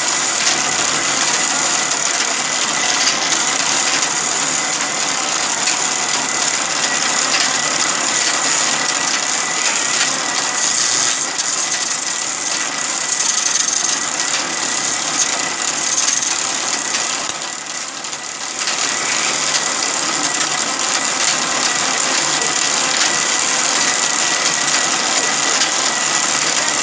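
Sawmill machinery running steadily: dense rattling mechanical noise with a steady high whine over it, dipping briefly about eighteen seconds in.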